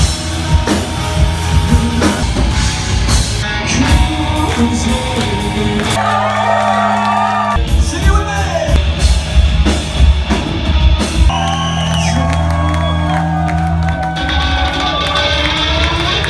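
Rock band playing loud, with drums, bass, guitar and a singing voice. The drums drop out for about a second and a half around six seconds in, then the full band comes back.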